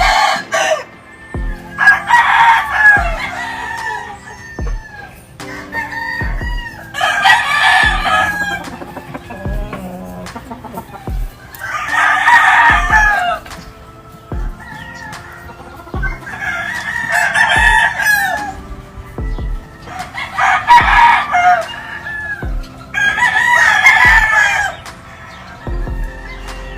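Rooster crowing: six long crows a few seconds apart, with chickens clucking between them.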